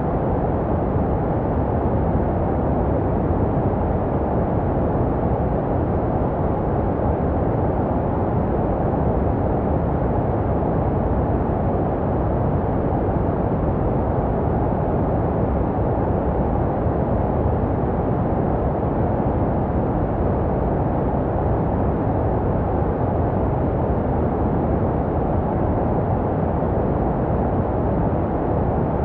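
Steady baby-sleep white noise, shaped to a deep, muffled hiss with little treble, meant to resemble the sounds a baby hears in the womb. It runs unchanged, with no beat or breaks.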